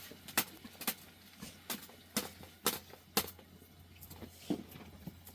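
A run of sharp knocks, about two a second, with a pause of over a second before a last couple of knocks.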